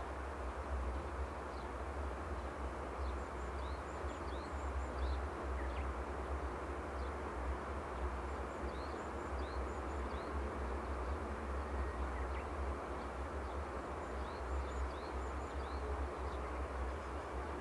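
Small birds chirping, short high notes that come in little runs every second or two, over a steady low rumble and rushing background.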